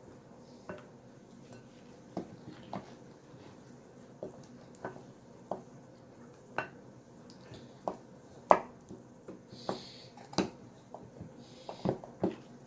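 Wooden spoon stirring glue and shaving cream in a bowl for slime, knocking and scraping against the bowl in an irregular string of sharp taps, the loudest about eight and a half seconds in.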